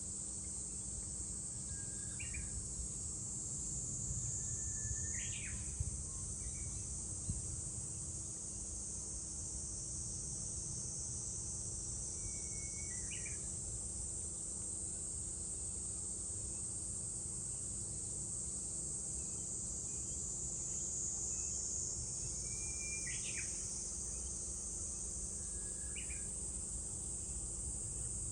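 Cicadas droning steadily in a high-pitched chorus that swells and fades slowly. A bird calls about six times with short notes that start flat and then sweep up sharply, over a low rumble.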